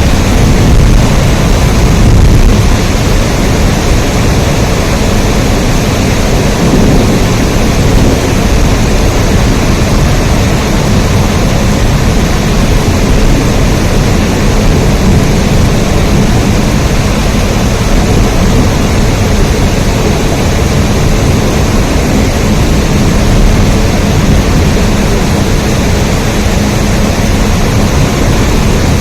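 Steady heavy rain: a loud, even wash of noise with a deep rumble underneath, unchanging throughout.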